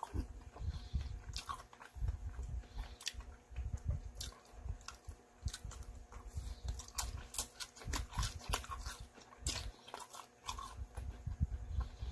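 A person chewing Korean potato pancake (gamjajeon) close to the microphone, with open-mouthed smacking and many sharp, irregular clicks over soft low thuds of the jaw.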